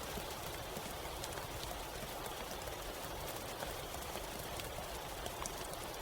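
Steady rain falling in a forest, an even hiss with many separate drop ticks landing close by.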